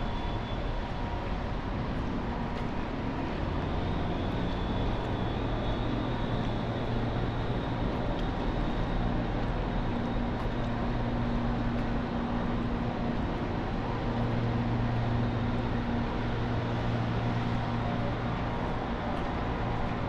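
City street traffic in the rain: a steady hiss of noise with a low, steady engine hum that grows a little louder about four seconds in.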